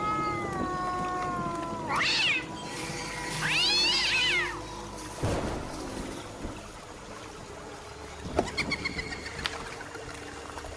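A series of cat-like animal calls: a long falling wail, then a short sharp cry, then an arched call that rises and falls, followed by a few scattered clicks in the second half.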